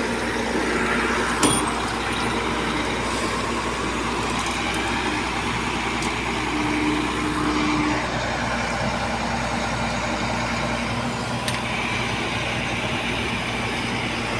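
Diesel engine of an Iveco Trakker boom truck running steadily, with a sharp knock about a second and a half in.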